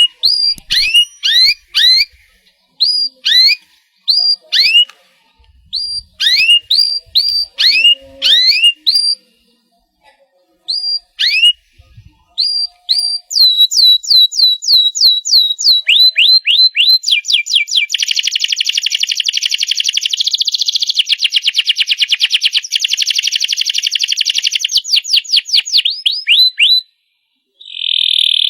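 Domestic canary singing. It starts with separate short whistled, sweeping notes and pauses, then speeds up into rapidly repeated notes and a long, fast trill lasting about ten seconds. The trill cuts off suddenly near the end, and a new phrase begins just after.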